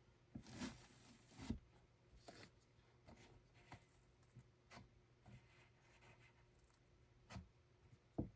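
Faint, irregular rubbing and light clicking of hands working thread and wooden parts at a hand loom, with a sharper wooden knock about a second and a half in and a louder one near the end.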